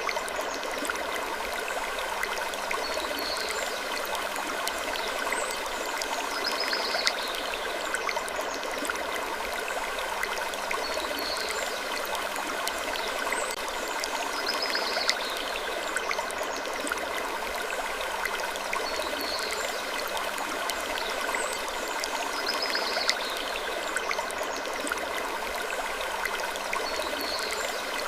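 Steady stream-like rushing noise with short wooden creaks recurring every few seconds, a relaxing creaking ambience.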